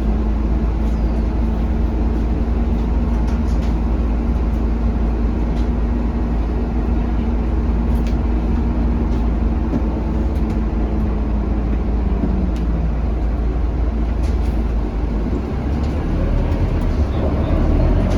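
Scania K310UB city bus heard from inside the cabin on the move, its diesel engine running at a steady note that eases down about two-thirds through as the bus slows, with a steady low rumble and scattered light rattles and clicks from the body.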